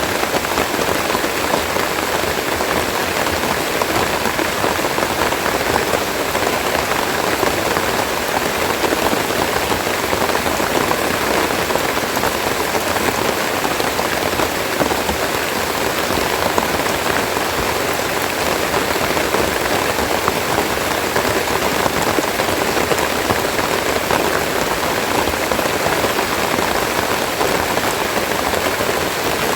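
Steady rain falling, an even, unbroken hiss that holds constant throughout.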